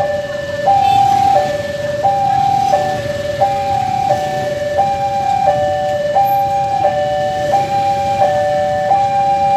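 Railway level-crossing warning alarm sounding a steady two-tone electronic signal that alternates high and low about every 0.7 seconds, the signal that a train is approaching the crossing.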